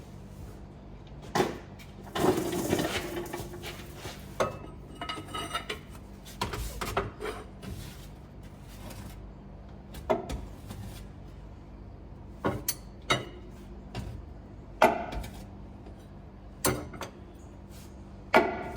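Metal tools and parts clanking and clinking against metal: irregular sharp knocks, with a longer rattle about two seconds in.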